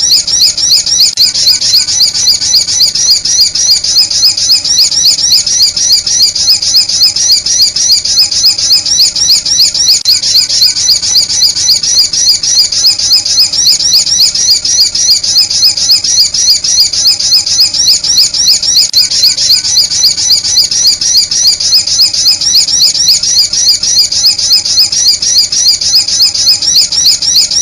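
Sunbird call played as a bird lure: a high-pitched chirp repeated steadily and quickly, several times a second, without pause.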